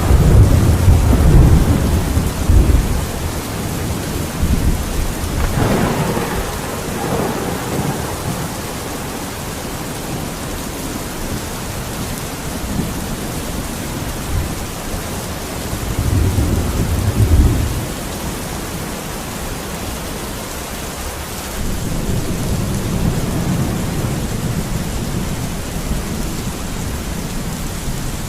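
Steady rain falling, with low rolls of distant thunder: one in the first few seconds, shorter ones around six seconds and a third of the way through, and a longer one from about three-quarters of the way in.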